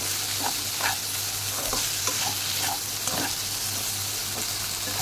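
Paneer cubes sizzling as they toast in butter in a pan, with a steady frying hiss. A spatula stirs and scrapes them, making short scrapes every half second or so through the first few seconds.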